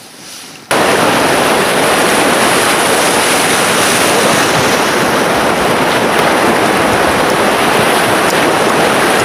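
Loud, steady rushing noise with no tone in it, starting suddenly a little under a second in.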